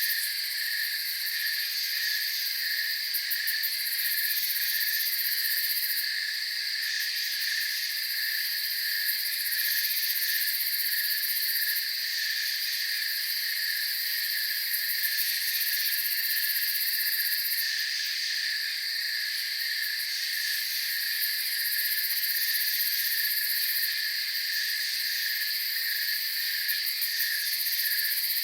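A steady night chorus of crickets, several high trilling layers at once, one of them a fast pulsing chirp. The highest, shrillest layer swells and fades every few seconds.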